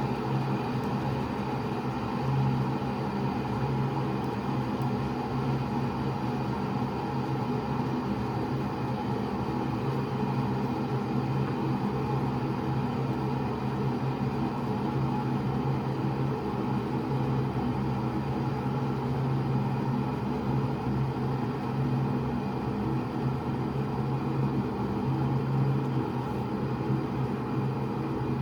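Taylor Swoden electric kettle heating water: a steady rumble and hiss as the water warms toward the boil.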